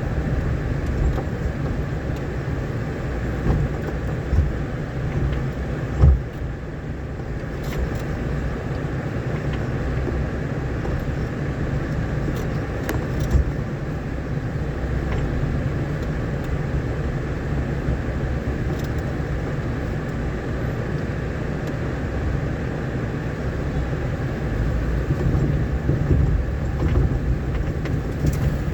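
A vehicle driving along a rough, rain-damaged dirt road: a steady low rumble of engine and tyres, with a few short knocks over the bumps, the loudest about six seconds in.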